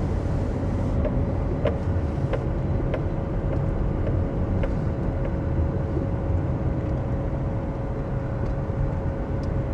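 Car driving, heard from inside the cabin: a steady low rumble of engine and road noise with a thin steady hum and a few faint ticks.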